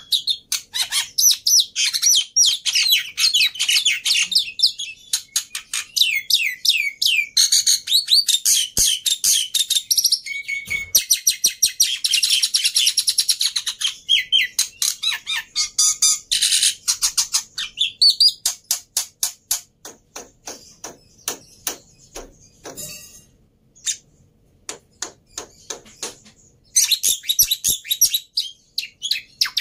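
Black-winged myna (jalak putih) singing continuously: a rapid, varied chatter of whistled notes sliding up and down, mixed with clicks. About two-thirds of the way through, the song thins to spaced clicks for several seconds. The dense chatter comes back near the end.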